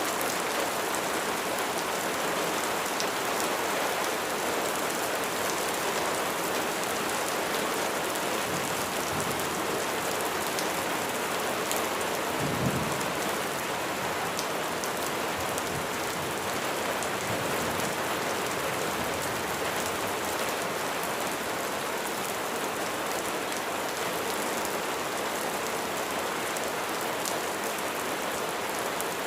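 Steady rain falling, an even hiss of drops, with a brief low rumble about halfway through.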